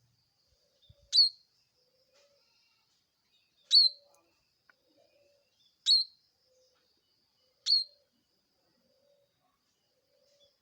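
Ciblek (prinia) giving four short, sharp, loud calls about two seconds apart, each note dropping steeply in pitch.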